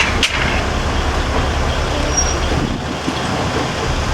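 KiHa 20 diesel railcar's DMH17 diesel engine running with a steady low drone under wheel and rail noise, heard from the cab; a sharp click about a quarter second in, and the engine note briefly drops about three seconds in.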